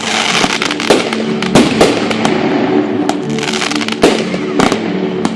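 Fireworks going off: a close series of sharp bangs with crackling between them, several reports a second.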